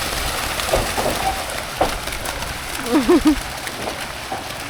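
Dense shoal of fish churning and splashing at the water surface in a feeding frenzy, a steady splashing hiss much like heavy rain on water, with brief excited exclamations over it.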